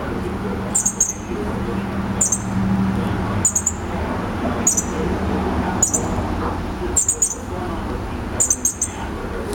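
Fledgling bird chirping high and thin, about once a second, often two or three pips in quick succession: the repeated calls of a young bird begging for food.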